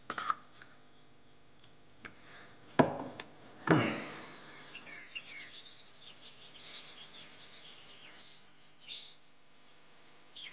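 Two sharp knocks about three and four seconds in, then small birds chirping and twittering for several seconds.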